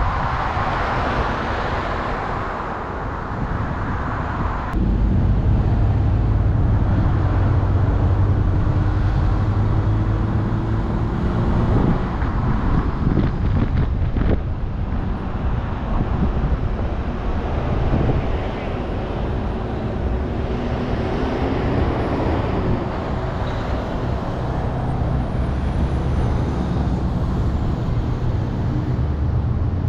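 A car driving, with steady engine and road noise; about five seconds in the sound steps up and an engine tone slowly rises as it gathers speed.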